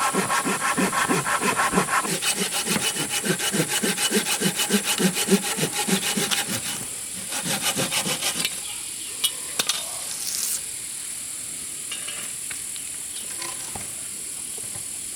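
Hand saw cutting through wood in quick, even back-and-forth strokes, about three a second, stopping a little over halfway through; a few light knocks follow.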